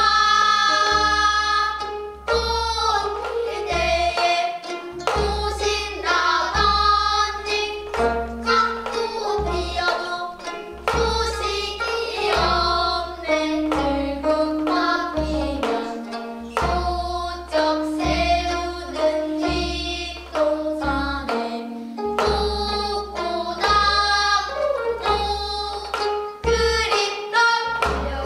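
Gayageum byeongchang: young singers in unison, accompanied by plucked gayageum strings, over a steady low drum beat.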